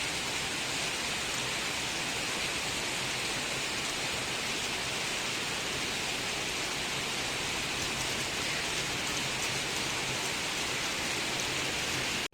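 Steady, even hiss of falling water, which cuts off suddenly at the end.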